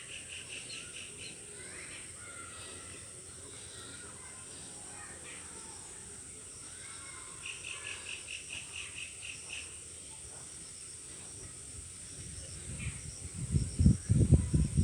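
Pond-side nature ambience: a steady high insect drone under birds calling, with a quick run of repeated call notes about halfway through. Near the end come loud, low, uneven thumps and rumble.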